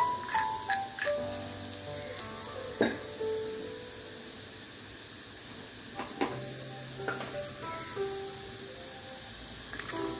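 Sliced jak fruit seeds sizzling as they fry in oil in a clay pot, stirred with a spatula that knocks against the pot a few times. Soft background music plays underneath.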